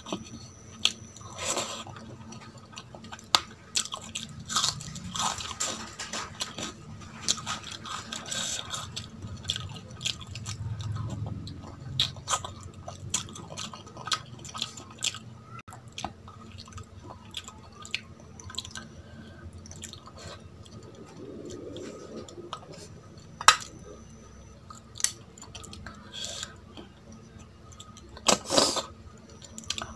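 Close-up eating sounds of a person eating mutton curry and rice by hand: irregular chewing, wet mouth clicks and smacks, and squishing of the rice and curry as the hand mixes it, with a louder cluster of bites near the end as a piece of bone-in mutton goes to the mouth.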